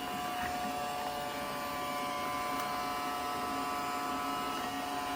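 Small, inexpensive robot vacuum running, its motor giving a steady whining hum while it sucks up confetti.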